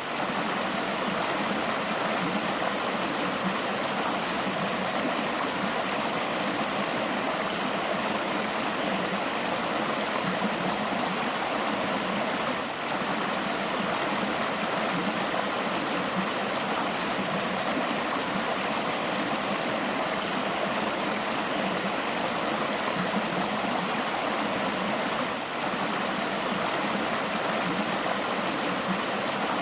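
A river flowing steadily, its water running and babbling without a break.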